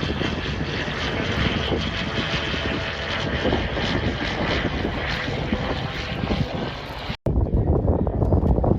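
Propeller-driven light aircraft engine running, a loud steady drone. About seven seconds in the sound cuts out for an instant, and a lower, rumblier noise follows.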